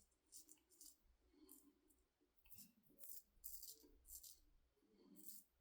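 Shavette razor blade scraping through several days' stubble in short, quick strokes, a faint dry rasp about twice a second.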